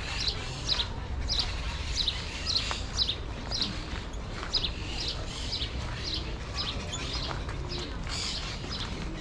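Small birds chirping: a run of short, high, downward-sliding chirps, about two a second, over a steady low rumble.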